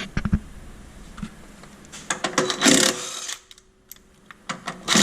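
Impact wrench hammering in short bursts on the front suspension fasteners, loosening them. A few sharp clicks at the start, then a loud burst of rattling about two seconds in and another near the end.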